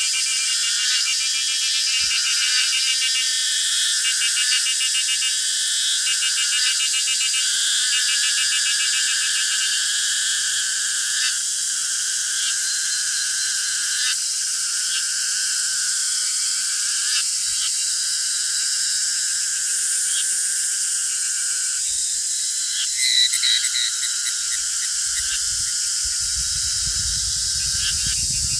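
Summer insect chorus of singing cicadas: a steady high buzz with faster pulsing calls over it through the first ten seconds and a brief louder call near the end. A low rumble comes in near the end.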